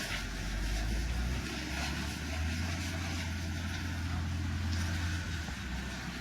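Steady low machine rumble with an even hiss over it, easing slightly near the end.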